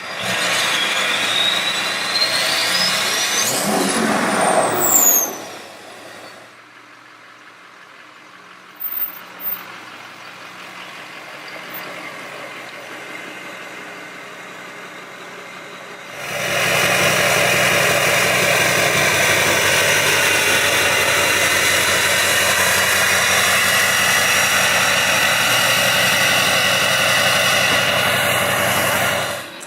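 Straight-piped 6.6-litre LBZ Duramax V8 turbodiesel running, with a whistle rising then falling as it revs in the first few seconds. It drops to a quieter run, then from about halfway through runs loud and steady until it cuts off.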